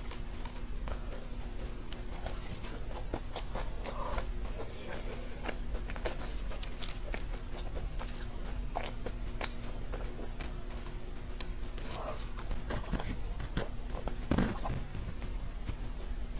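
Close-miked biting and chewing of a macaron with a crisp caramelized-sugar top, like a crème brûlée crust: scattered small crunchy crackles throughout, with a faint steady hum underneath.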